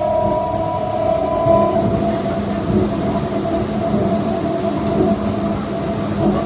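Running noise of a moving passenger train heard from inside, through an open coach window: a steady rumble with a high steady tone that fades out about two seconds in.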